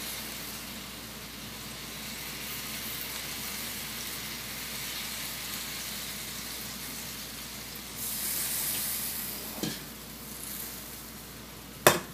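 Chicken sizzling in a hot wok as Coca-Cola is poured over it, a steady frying hiss that surges louder about eight seconds in. A sharp knock comes just before the end.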